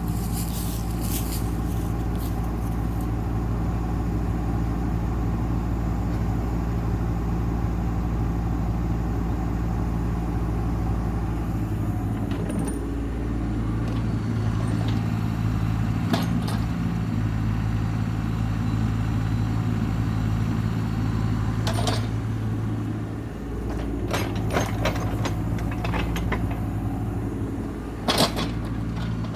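Heavy land-clearing machine's engine running steadily under load. Its note shifts about twelve seconds in and dips briefly near 23 seconds, with scattered metallic clanks and rattles.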